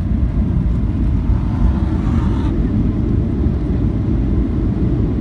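Steady, loud low rumble inside the cabin of a Boeing 737-800 airliner: engine and airflow noise heard from a window seat.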